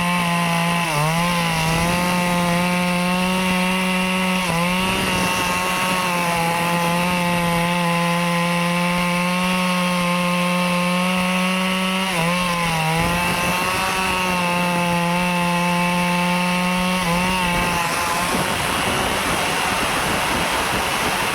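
Two-stroke Stihl chainsaw running at high throttle, cutting into teak wood, its steady engine whine dipping briefly in pitch several times as the chain bites into the cut. Near the end the whine gives way to a rougher, noisier sound for a few seconds before the tone returns.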